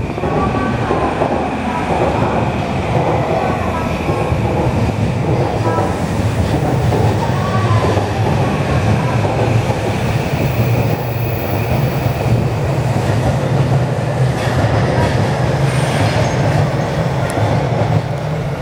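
JR East E235 series 1000 electric train pulling out and picking up speed as its cars pass close by, a steady loud run of motor hum and wheel noise on the rails.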